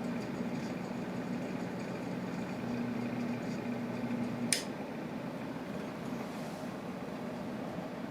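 Bladeless vintage ceiling fan motor running on test, a steady electric hum. A single sharp click about halfway through, after which the hum changes slightly.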